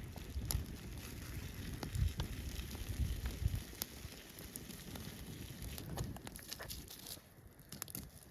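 Wood campfire crackling, with scattered sharp pops over a steady hiss. A few low dull thuds sound about two and three seconds in.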